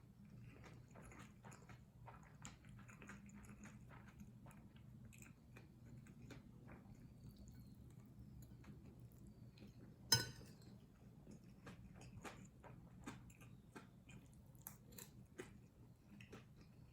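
Faint, close-miked chewing and small wet mouth clicks of someone eating kimchi fried rice, with one sharp clink about ten seconds in, over a faint steady low hum.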